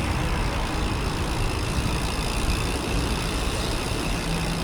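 Steady rumbling wind and road noise on the microphone of a moving bicycle, with no pauses or distinct events.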